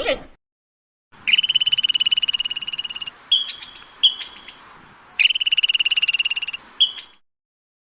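Frog calling: two long, high, rapidly pulsed trills, each lasting about a second and a half, with short chirps between them.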